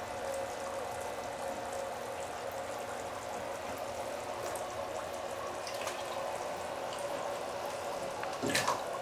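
Water trickling and dripping in a white-winged scoter's pool, over a faint steady hum, with small splashes from the bird and one short louder splash near the end.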